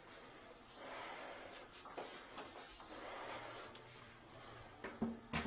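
Faint shuffling and handling noises in a small room, with a few sharp clicks near the end.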